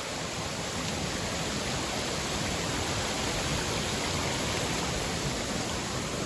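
Creek water rushing over a small waterfall, a steady, even rush.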